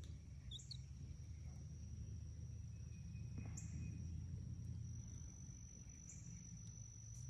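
Insects droning in a steady, high, thin tone, with a few faint short chirps and a low rumble underneath.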